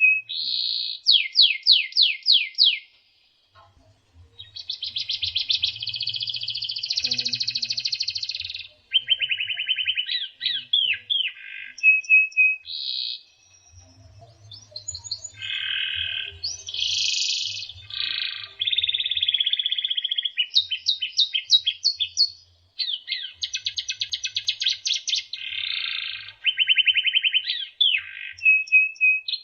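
White-rumped shama (murai batu) singing a long, varied song of rapid trills, fast repeated notes and clear whistled phrases, broken by a few brief pauses.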